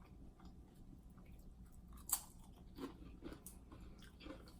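A person chewing food close to the microphone, faint and soft, with a sharp crunch about two seconds in and another about three and a half seconds in.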